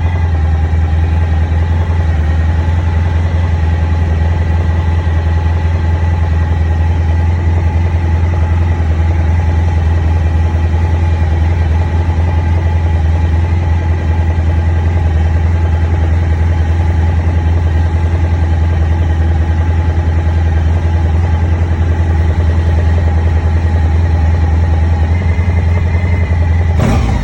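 A 2001 Honda ST1100's V4 engine idling steadily, with the knock from the right side of the engine that the owner is pointing out. Right at the end the engine note changes suddenly.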